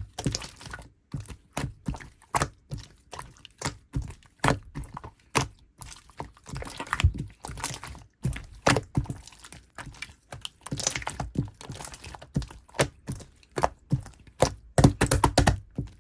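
Light pink clear slime being squeezed and stretched by hand, giving irregular sticky pops and clicks, several a second and sometimes in quick clusters. The uploader says this slime has melted, so it is soft and runny.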